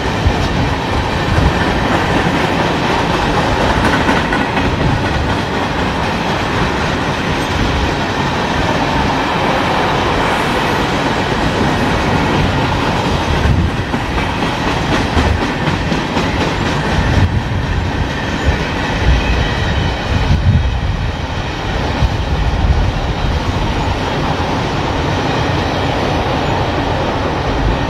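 Freight train cars (tank cars, covered hoppers and boxcars) rolling past. A steady loud rumble with wheels clacking over the rail joints.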